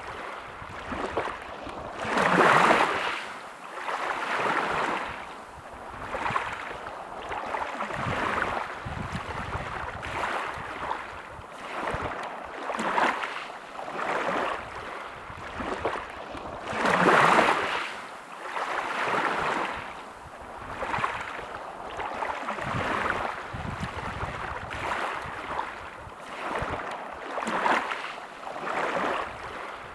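Sea waves washing onto a beach, the surf hiss swelling and fading every second or two, with two bigger waves breaking about two and a half seconds in and again around seventeen seconds in.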